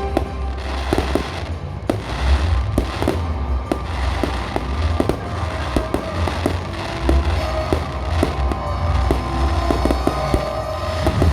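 Fireworks display going off in a rapid, continuous series of sharp bangs and crackles over deep booming rumble, with music playing along.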